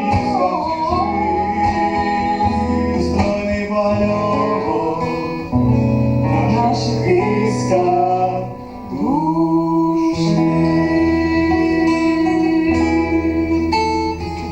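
A song with acoustic guitar accompaniment and singing, with a long held note in the second half.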